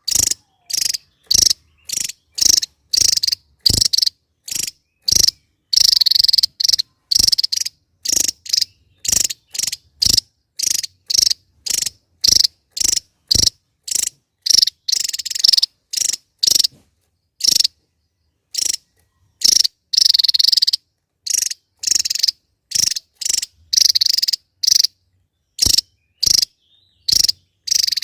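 Javan tesia giving a long series of sharp, dry, high call notes, about two a second, broken by a few longer rattling bursts.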